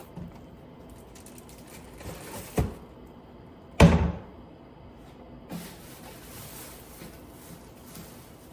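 Knocks from household handling: a short sharp knock about two and a half seconds in, then a louder thud with a brief ring just under four seconds in, with a few soft bumps around them.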